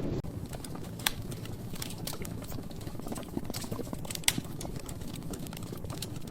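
Wood fire burning in a fireplace, crackling with irregular small pops over a soft low rush of flame. Two sharp, loud snaps stand out, about a second in and again about four seconds in.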